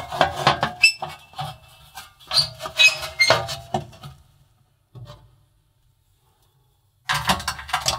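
Metal fan guard panel clattering and scraping against the oven cavity as it is put back over the fan, with knocks and a short metallic ring about a second in. The sound cuts out completely for about three seconds, then scraping and rubbing of metal on metal resume near the end.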